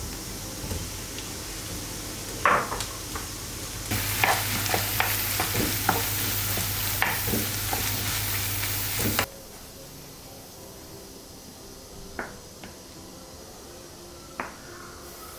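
Food sizzling in a frying pan while a utensil stirs and taps against it, getting louder about four seconds in. The sizzle cuts off suddenly about nine seconds in, leaving a quieter stretch with a couple of light knocks.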